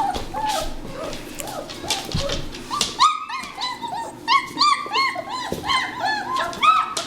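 German Shepherd puppies whimpering and yipping: a quick string of short, high, arching whines, a few each second, growing busier and overlapping in the second half.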